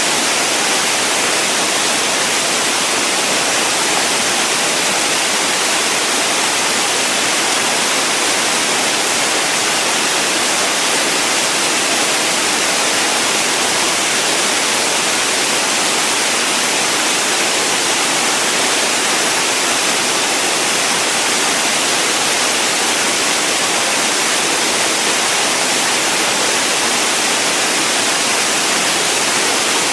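Steady white noise: an even hiss with most of its weight in the treble and little bass, unchanging in level.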